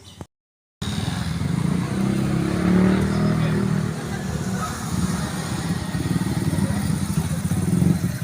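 Motorcycle engine running close by, steady and pulsing, rising a little about three seconds in. It starts loud after a half-second dropout near the start.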